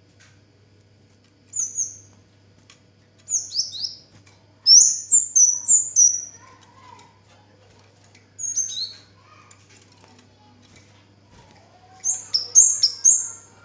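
Kemade (cigen) songbird singing in bursts of short, high, downward-sliding chirps: five phrases with pauses between them, the longest and loudest about five seconds in and another near the end.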